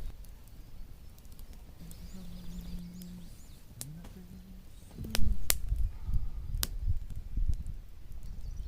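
Three sharp cracks: the first, about five seconds in, is the loudest, and two more follow within a second and a half, over low rumbling thuds. Small birds chirp faintly earlier on, and a low steady hum sounds for a couple of seconds before the cracks.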